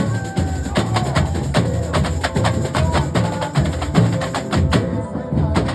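A carnival comparsa's drum section playing together: fast, dense sharp stick strikes over deep drum beats. The sharp strikes thin out briefly about five seconds in.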